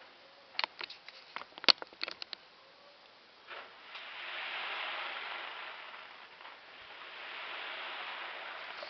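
Fireworks going off: a quick run of sharp cracks and pops in the first two and a half seconds, the loudest a little under two seconds in. Then a hissing crackle of burning sparks that swells twice.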